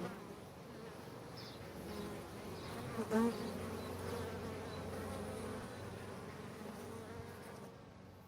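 Honey bees buzzing around a hive in a steady hum, with one bee flying close past about three seconds in, briefly louder with a rise and fall in pitch. The hum fades out near the end.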